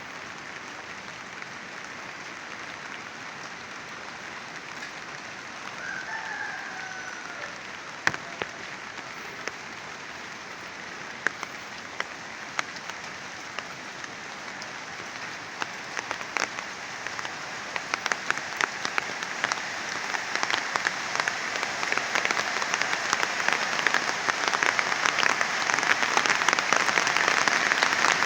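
Heavy rain falling steadily, with sharp ticks of individual drops striking close by. It grows louder through the second half.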